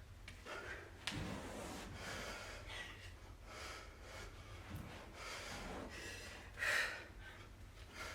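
Heavy breathing: a series of sharp breaths in and out, one noticeably louder near the end.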